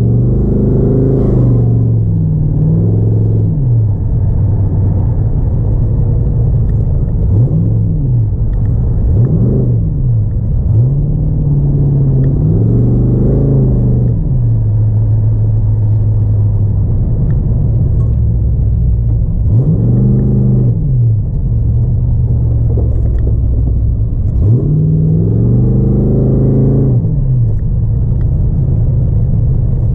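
Car engine during an autocross run, its pitch climbing and falling back again and again as the car accelerates and lifts off between corners, with a steady low rumble in the stretches between.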